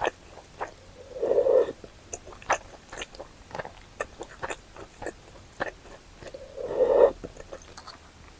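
Close-miked eating sounds: a person chewing, with many short wet mouth clicks and two louder, longer chews or slurps, about a second in and again near seven seconds.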